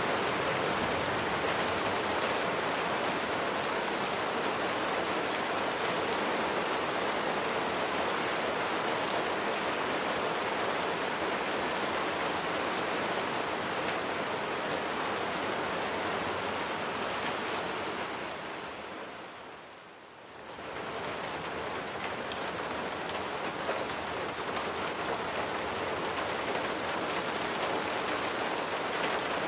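Steady rain falling, a dense even patter of raindrops. About two-thirds of the way through it fades down briefly, then comes back up to full strength.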